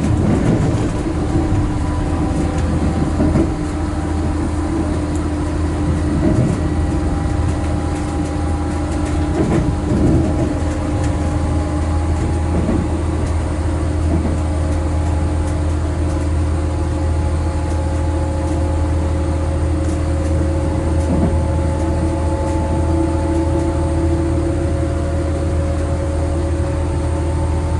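Inside a Hitachi Intercity Express Train coach under way: a steady low rumble with a whine that rises slowly in pitch as the train picks up speed, and a few faint knocks from the track.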